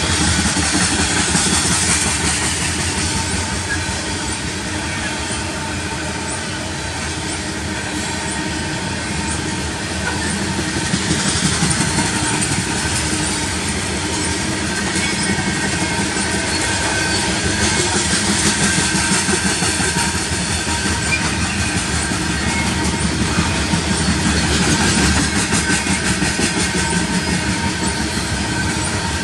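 Loaded coal cars of a freight train rolling past at close range: a steady rumble of steel wheels on the rails with a rhythmic clatter from the cars' wheels and trucks.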